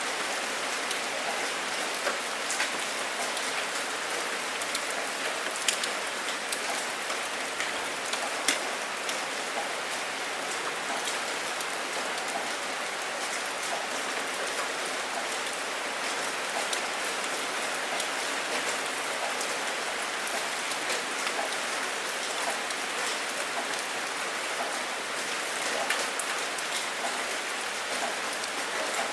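Steady rain falling, with scattered sharp ticks of single drops striking close by. No thunder is heard.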